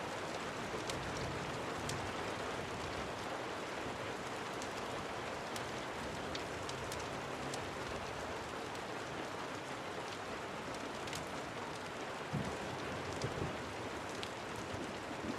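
Steady rain falling, with scattered sharp ticks through it and a few soft low thumps about twelve to thirteen seconds in.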